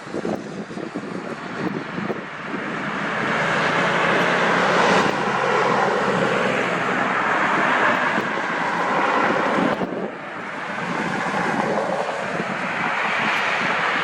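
Aircraft engines running close by: a loud, steady engine noise that builds over the first few seconds, dips briefly about ten seconds in, then builds again.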